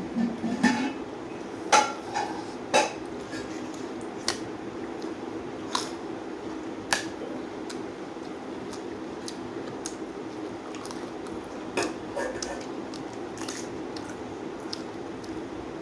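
Dishes and utensils clinking during a meal: scattered sharp clicks and taps, several in the first three seconds and a few more later, over a steady low hum.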